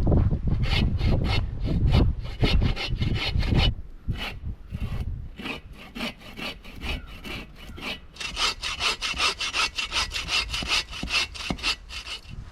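Hand saw cutting through a tree trunk in steady back-and-forth strokes, about four a second, with a low rumble under the first four seconds. From about eight seconds in, the strokes come faster and sound brighter.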